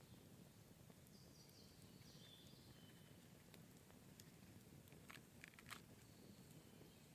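Near silence: faint forest ambience, with a few soft sharp clicks about five seconds in.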